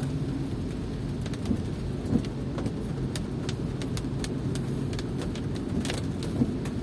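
Steady rain, an even low rumble with scattered drops tapping sharply here and there.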